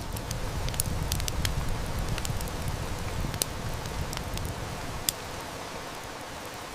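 Steady hiss of heavy rain with a wood fire crackling: scattered sharp snaps and pops, the loudest about five seconds in. A low rumble of distant thunder swells at the start and fades away after about four seconds.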